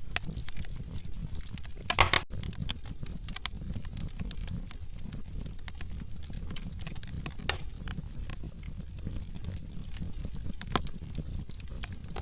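Wood fire crackling in a fireplace: a steady low rumble of the flames under irregular sharp pops and snaps of burning logs, with a loud cluster of pops about two seconds in.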